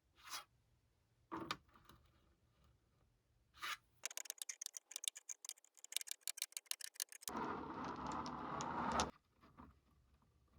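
Nail-care tools working on nails: small taps and scrapes, then about four seconds in a quick run of rasping strokes, about six a second, then a steady harsh rubbing for about two seconds.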